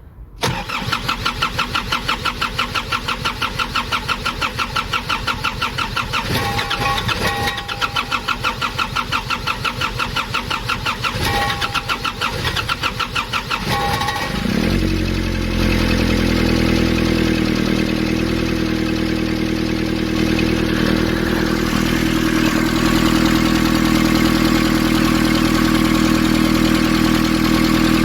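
Nissan ZD30 four-cylinder diesel being cranked by the starter motor for about fourteen seconds, with a rapid even pulsing, then catching and settling into a steady idle. This is a start attempt on an engine that had a no-start fault.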